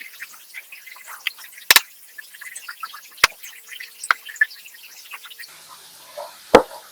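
Food frying in oil, crackling with many small pops, with a few sharp knocks, the loudest near the end.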